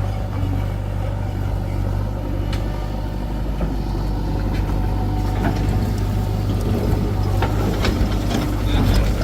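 A heavy machine's engine running steadily with a deep hum, with scattered short knocks and clatter in the second half.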